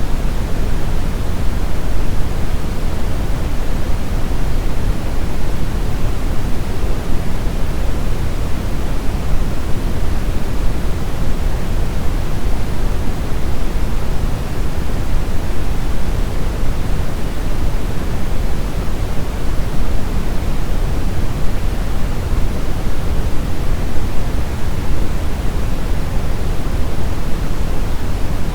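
Brown noise: a steady, even rumble of synthetic noise, heaviest in the low end and dull on top, with no change or break.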